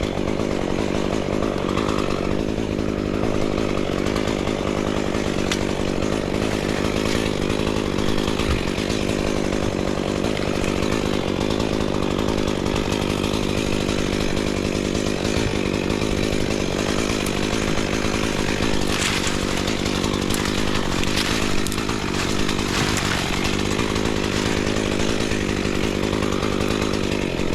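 Chainsaw running steadily at an even pitch.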